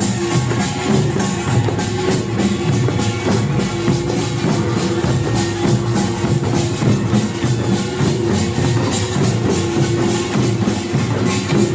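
Korean pungmul percussion band playing: kkwaenggwari small gongs struck in a fast, steady rhythm over janggu hourglass drums, buk drums and jing gongs, with a steady held tone underneath.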